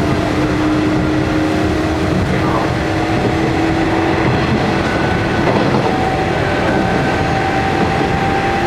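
Nishitetsu 5000 series electric train running at speed, heard from inside the passenger car: a steady rumble of wheels and running gear with a motor whine that rises slightly and fades out about halfway, and a higher whine that comes in near the end.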